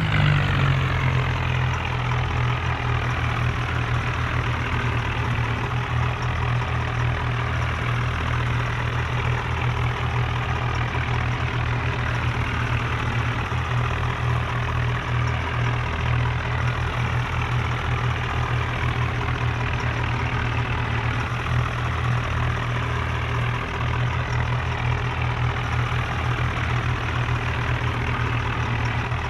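Tractor diesel engine running steadily at constant speed, with a low, evenly pulsing note.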